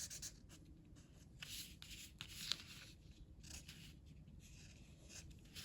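Faint, uneven scratching strokes of a blue colouring tool shading back and forth on paper.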